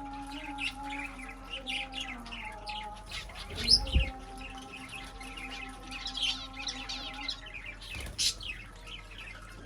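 Many small birds chirping and twittering in a dense morning chorus, over a steady low hum. A louder call with a low thump comes about four seconds in, and another sharp call near the end.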